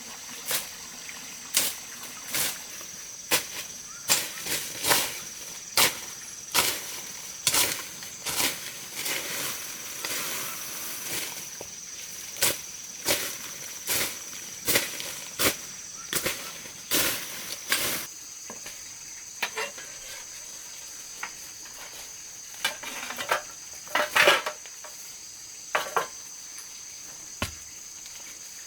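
Hand-tool blows on wood, struck at an even pace of a little more than one a second for most of the first eighteen seconds, then a few scattered strikes. Behind them a steady, high-pitched drone of insects.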